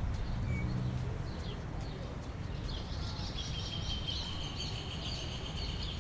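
Small birds chirping over a steady low rumble; about halfway through the chirps thicken into a denser, high trilling run.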